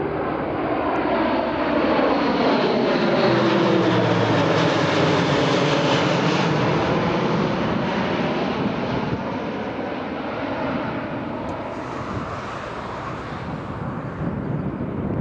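Military fixed-wing aircraft flying over, its engine noise swelling to a peak about four to six seconds in, then fading as it passes.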